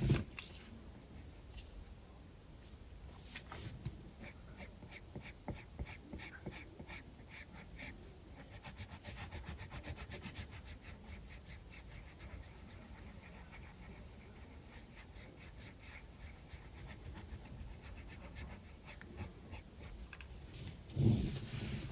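Graphite pencil scratching across sketchbook paper in quick, repeated shading strokes, with a soft bump near the end.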